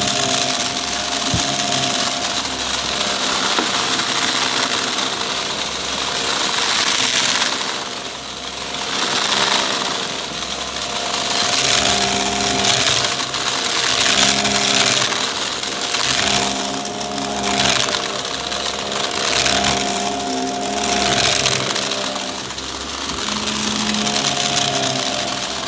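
Upright vacuum cleaner running with a steady motor whine and hiss, being pushed back and forth: the sound swells and eases every one to two seconds with each stroke.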